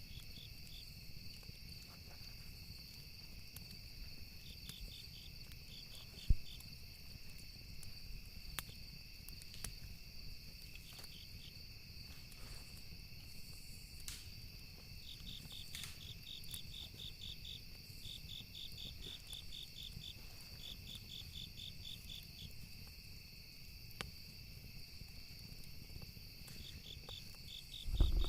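Campfire ambience: crickets chirping in repeated trains of rapid pulses over a steady high insect drone, with scattered sharp crackles and pops of burning wood, the loudest pop about six seconds in. A low thump comes near the end.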